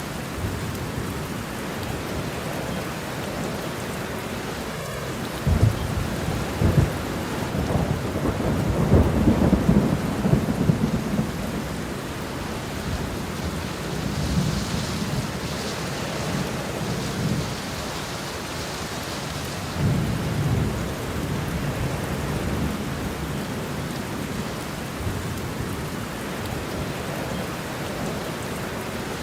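Steady rain falling with rolls of thunder rumbling low underneath: the strongest rumbling is from about six to eleven seconds in, and another roll comes about twenty seconds in.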